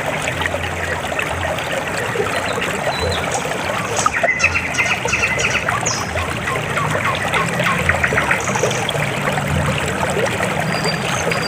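River water flowing and trickling: a steady rush full of small splashes. A brief rapid, high twitter sounds about four seconds in.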